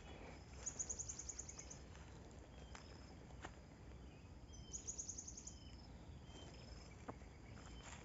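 Quiet forest ambience: two short runs of rapid, high chirps, about a second in and again around five seconds in, with a few faint single calls and light clicks between.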